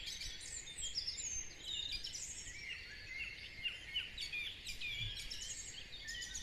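Dawn chorus: many birds singing at once, a dense tangle of overlapping chirps, trills and whistles over a low background rumble.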